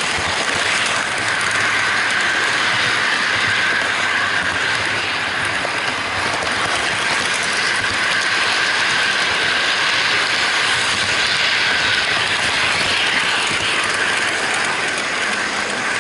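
HO-gauge model freight train running on its track, heard from a camera riding on one of its wagons: a steady, dense rattle of fine clicks from the wheels on the rails, with a whirring band.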